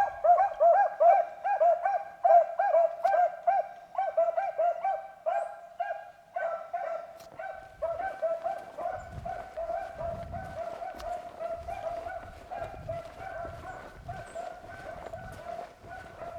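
Beagles baying on a rabbit's track: a rapid string of hound barks, two or three a second, loud at first and growing fainter about six seconds in as the hounds run on, with a low rumble under the later part.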